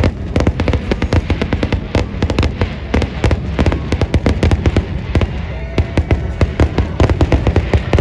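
Fireworks going off in a dense, rapid barrage: overlapping bangs and crackles, many a second, with no let-up.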